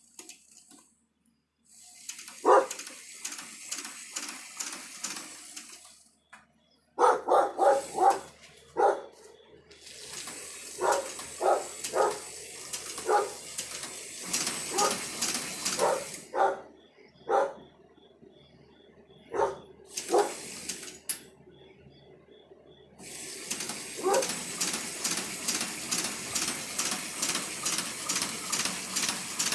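Rebuilt Chinese shoe patcher, a hand-cranked leather sewing machine, running in spurts: a rhythmic clatter of about two to three stitch strokes a second that stops and starts again several times.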